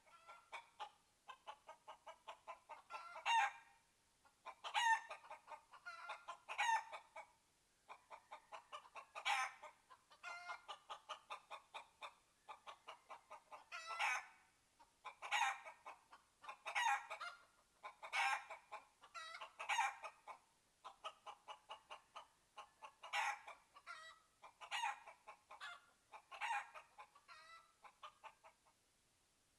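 Chicken clucking: runs of quick short clucks, each building to a louder, drawn-out squawk, repeating every second or two.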